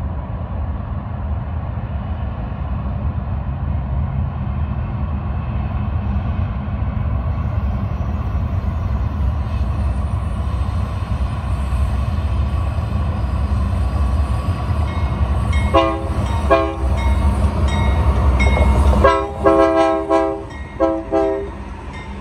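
Westbound BNSF intermodal train's diesel locomotives approaching, a low engine and rail rumble growing steadily louder. The locomotive's multi-note air horn sounds two short blasts, then longer blasts near the end.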